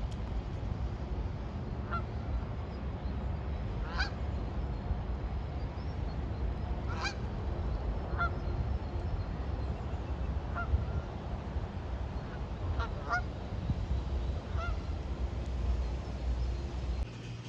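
Waterfowl calling, about eight short honks spaced irregularly a second or more apart, over a steady low rumble.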